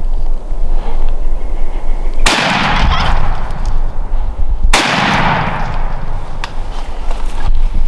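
Two shotgun blasts about two and a half seconds apart, each cutting in sharply and dying away over a couple of seconds, with steady wind rumble on the microphone.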